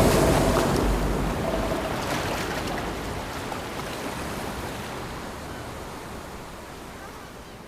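Ocean surf: a wave breaking loudly at the start and washing out, fading away steadily.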